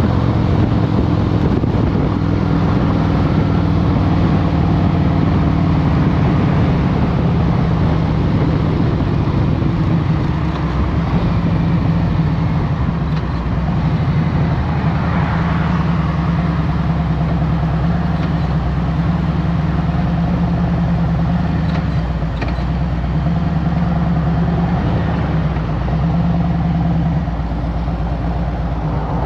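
Harley-Davidson Road Glide Special's Milwaukee-Eight V-twin engine running at a steady, low pulse through traffic, with Stage One air-intake upgrades; the pitch shifts only a little across the stretch.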